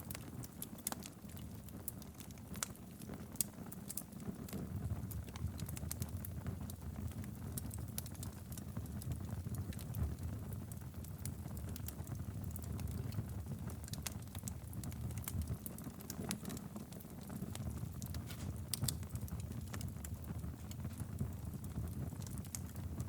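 Fire burning steadily in a fireplace: a low rumble with frequent sharp crackles and pops scattered throughout.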